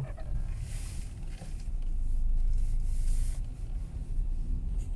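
Steady low rumble of a car's cabin while driving, with a couple of brief hissing swishes over it, about a second in and again near the middle.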